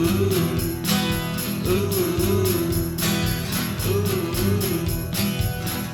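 Instrumental passage of a small band's song: guitar playing a repeating figure over a looped drum beat, with steady, evenly spaced high percussion hits.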